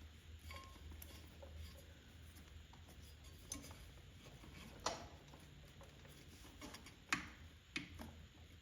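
Light ticks and taps of hand tools and small metal parts being handled, with three sharper clicks about five, seven and eight seconds in, over a low steady hum.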